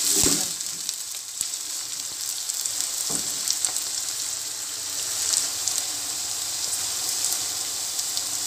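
Sliced onions frying in hot oil in a nonstick karahi, a steady sizzling hiss with scattered crackles. A wooden spatula knocks against the pan just after the start and again about three seconds in.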